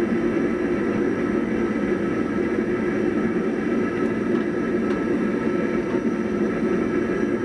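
Blacksmith's forge running with a steady, even rushing noise.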